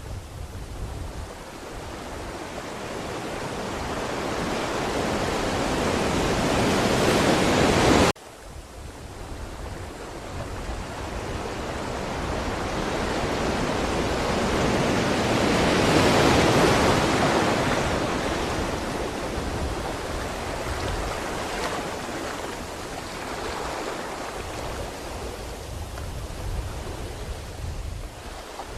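Ocean waves on a shore: a wave swells up to a peak and cuts off abruptly about eight seconds in, then a second wave builds to a broad crest about halfway through and slowly recedes.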